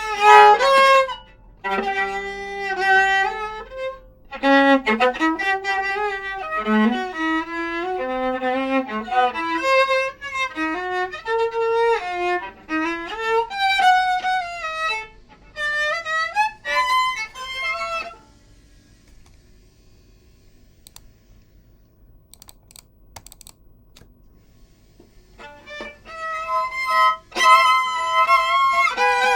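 Solo viola playing melodic phrases with short breaks between them. It stops for several seconds about two-thirds of the way through, leaving only a few faint clicks, then starts playing again near the end.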